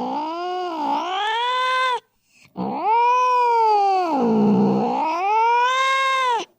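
Cat caterwauling, the drawn-out threat yowls of a cat fight. One long wavering yowl breaks off about two seconds in; after a short pause a second yowl sinks low, climbs back up and cuts off abruptly near the end.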